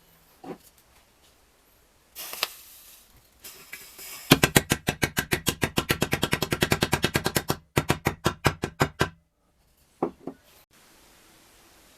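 A rapid, even run of sharp mechanical knocks, about ten a second, lasting some three seconds. A few slower, separate knocks follow before it stops about nine seconds in. A short burst of hiss comes about two seconds in.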